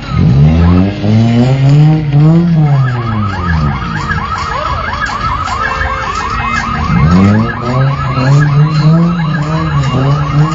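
Modified Suzuki Baleno's engine being revved up and down hard in repeated sweeps. A fast, repeating high warble sounds over the revs from about two and a half seconds in.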